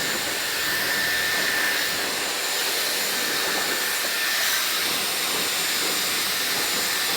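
Dyson hair dryer running steadily: a constant rush of blown air with a faint high whine that fades out about halfway through.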